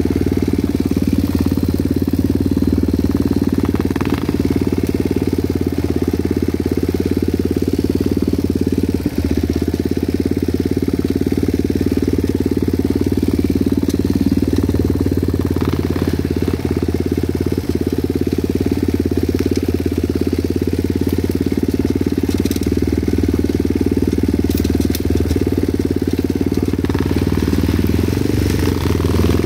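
Motorcycle engine running at a steady, unchanging pitch, loud and close.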